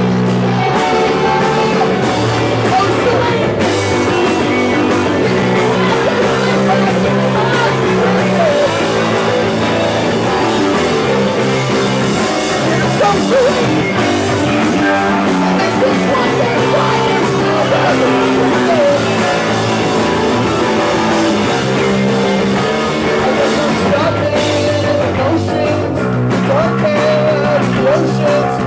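Live rock band playing a song loudly, guitar prominent, without a break.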